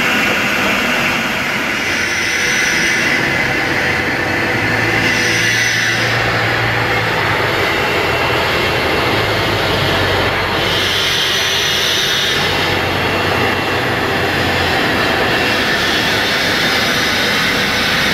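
Planet industrial vacuum cleaner running, a loud steady rushing of motor and suction whose tone shifts now and then.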